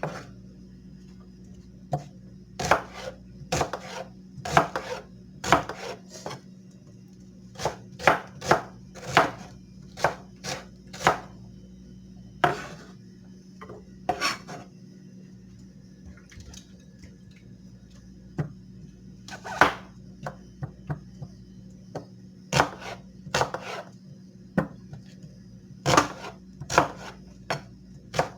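A kitchen knife chopping on a cutting board: irregular sharp knocks, often in quick runs of two to four, with short pauses between runs.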